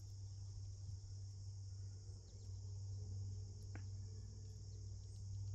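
Steady high-pitched chorus of crickets, with a low steady hum beneath and a single faint click a little past the middle.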